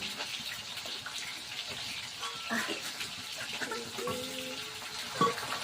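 Steady rush of running water, like a tap left running, with a few short faint voice-like sounds over it.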